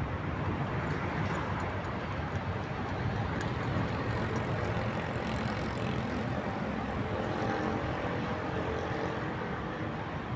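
Steady rumble of city traffic. A faint engine hum stands out more in the second half.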